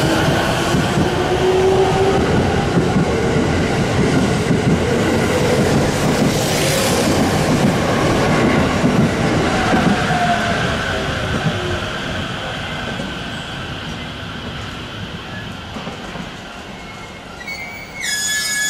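Musashino Line electric commuter train running along the platform: a loud rumble of wheels on rails, with a whine that slides up and down in pitch, growing quieter after about ten seconds. Just before the end, a short high-pitched tone with several overtones comes in.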